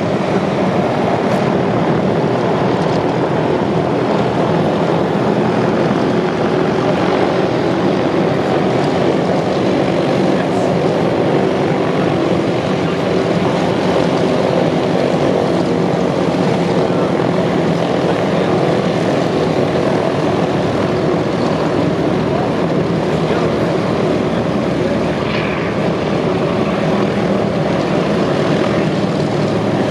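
Douglas DC-3 and C-47 Dakota twin radial piston engines running, with a steady propeller drone and no marked rise or fall.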